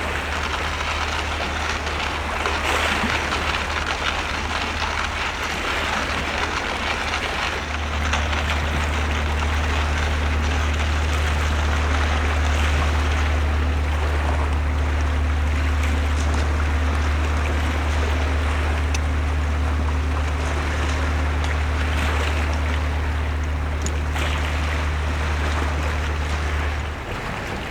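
A steady low engine hum over a constant noisy wash. The hum gets louder about eight seconds in and cuts out shortly before the end.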